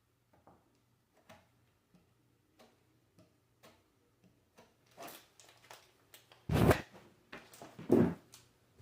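Scattered light clicks and knocks, coming more often after about five seconds, with two louder thumps near the end.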